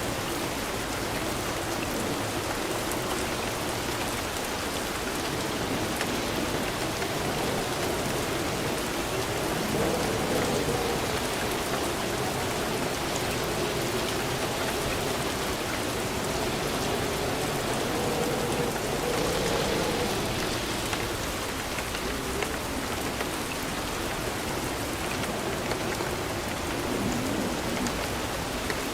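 Steady rain falling, an even wash of drops whose level swells slightly now and then.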